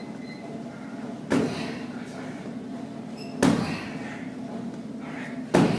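Three kicks landing on Muay Thai pads with sharp smacks, about two seconds apart.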